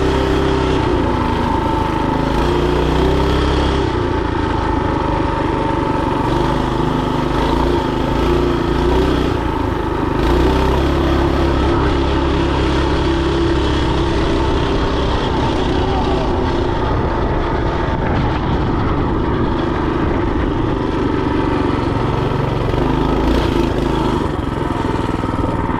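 Mini bike's small engine running while being ridden, its note rising and falling with the throttle.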